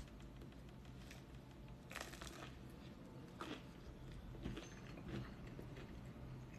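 Faint biting and chewing of a toasted bread montadito, with a few soft crunches spread through the chewing.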